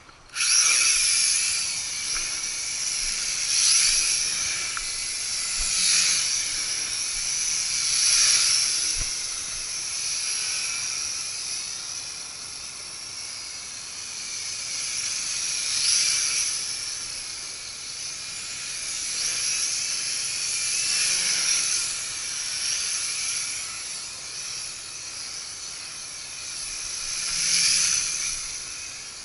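Mini quadcopter's small motors and propellers whining in flight; the sound starts suddenly just after the beginning as the motors spin up, then swells and fades every few seconds as the drone flies nearer and farther.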